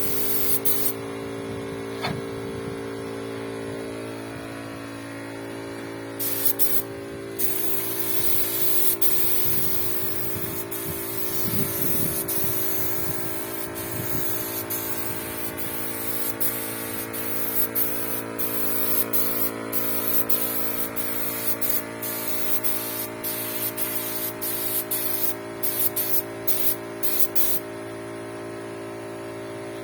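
Spray gun hissing in repeated short on-off bursts as finish is sprayed onto a boat, over a steady motor hum.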